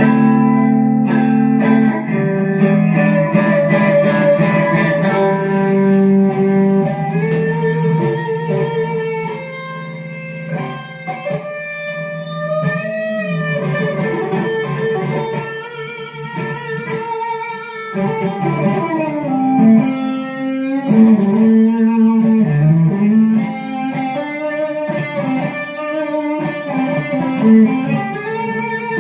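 Instrumental break of a gospel song: electric guitar playing a melodic line with bent, gliding notes over sustained chords.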